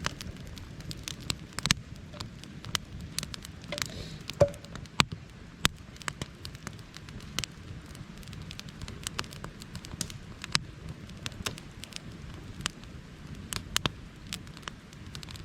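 Campfire of wet split wood crackling, with irregular sharp pops over a low steady rush.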